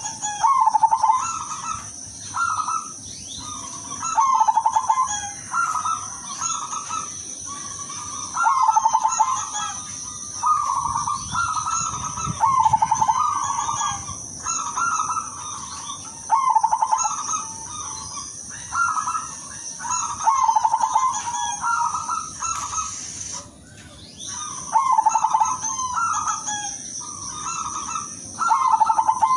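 Silver-morph zebra dove (perkutut) cooing: stuttering, rippling coo phrases repeating every second or two, with a short pause about three quarters of the way in. A steady high-pitched whine runs underneath.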